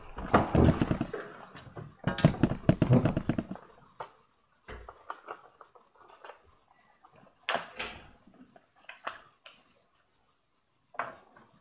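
Plastic and cardboard packaging of a Hot Wheels die-cast car being handled and torn open: two dense stretches of crackling in the first few seconds, then scattered clicks and rustles.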